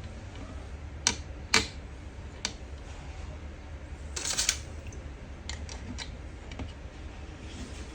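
A few sharp clicks and knocks, a short scrape about halfway through, then lighter ticks, over a steady low hum.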